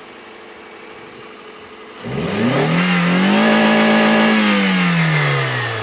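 Vehicle engine, freshly serviced with new spark plugs and a cleaned throttle body, idling quietly, then revved once about two seconds in, its pitch rising, holding and falling back toward idle near the end. It runs smooth, without bucking or misfiring.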